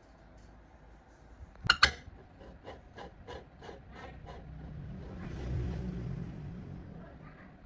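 Hand-tool work on a part: two sharp knocks, then a run of short rasping strokes about three a second, then a longer rubbing stroke.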